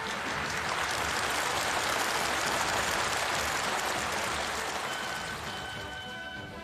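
A large crowd applauding, swelling and then fading, with background music coming in near the end.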